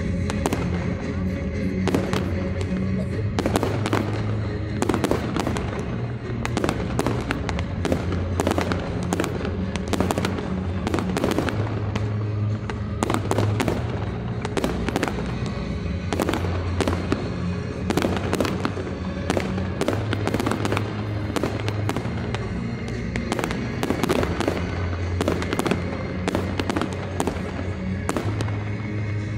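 Fireworks display: a dense, irregular run of bangs and crackles from bursting shells, several a second at times, over music with sustained low notes played through a sound system.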